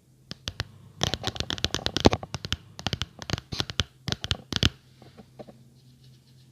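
Close-miked ASMR tapping and scratching on an object: a few separate taps, then a dense run of quick taps and scratches lasting about four seconds, thinning out to a few faint ones near the end.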